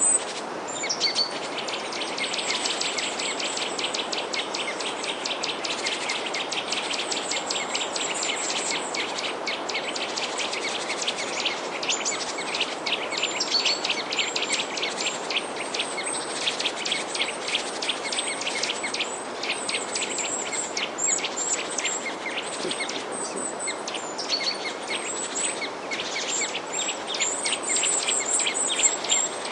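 Many small birds chirping and twittering together in a dense, continuous chorus of rapid high chirps, over a steady rushing background hiss.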